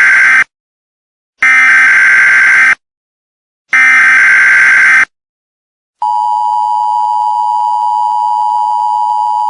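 Emergency Alert System header tones: the end of one burst and then two more loud, buzzy electronic data bursts, each about a second long and about a second apart. About six seconds in, the steady two-tone EAS attention signal starts and holds.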